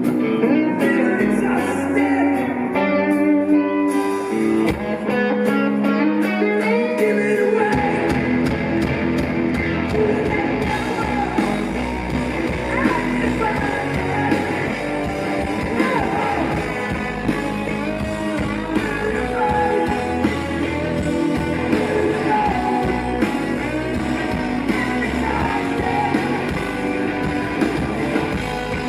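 Live rock band playing: guitar alone at first, then the full band with bass and drums comes in about eight seconds in.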